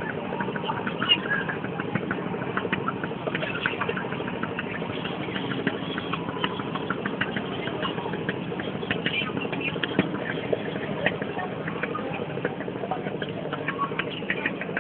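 Barge's engine running steadily, with frequent small knocks and rattles over the drone.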